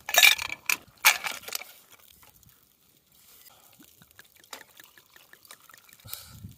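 Crunching while chewing grilled chicken cartilage close to the microphone: a few loud crunches in the first second and a half, then only faint small chewing sounds.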